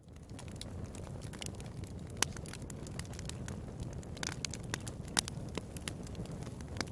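Wood fire crackling in a fireplace: a steady low rumble of flames with sharp pops scattered irregularly, the loudest about two, four and five seconds in.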